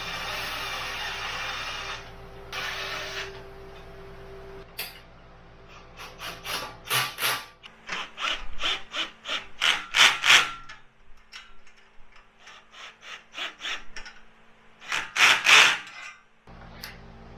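A steady hiss for about two seconds, then a series of short, irregular scraping and rubbing strokes, a few a second, loudest near the middle and again near the end.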